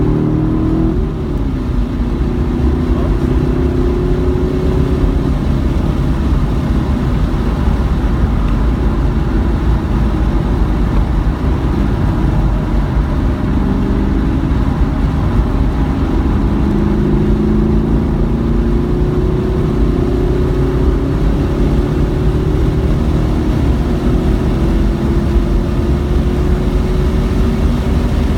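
Onboard sound of a car engine being driven hard: its pitch climbs under throttle and falls back at shifts and lifts, over steady road noise.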